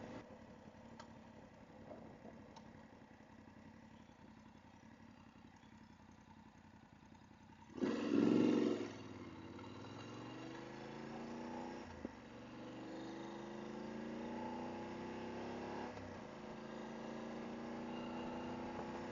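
Motorcycle engine running quietly at low speed, then a brief loud rush of noise about eight seconds in, after which the engine pitch rises steadily as it pulls away through the gears, with short dips at the shifts.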